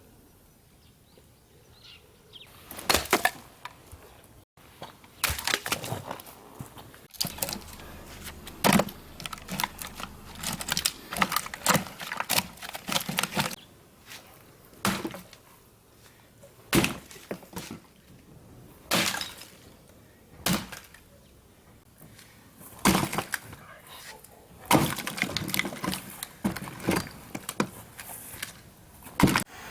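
Dry firewood snapping and cracking: a long series of sharp, irregularly spaced cracks, some single and some in quick clusters.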